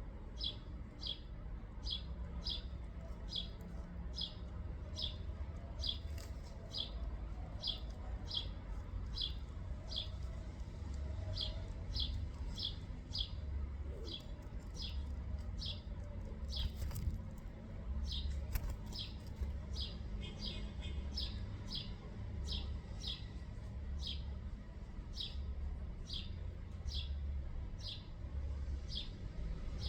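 A songbird calling steadily, one short sharp high note repeated about twice a second, over a low rumble.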